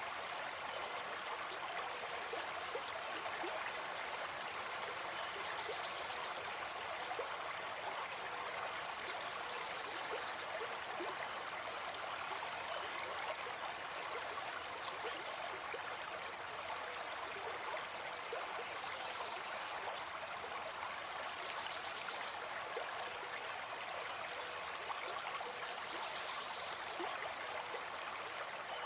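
Gentle forest stream flowing steadily over stones, a continuous babbling and trickling of water.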